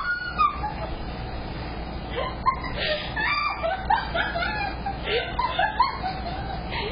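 People's voices laughing and giggling in short bursts, without clear words.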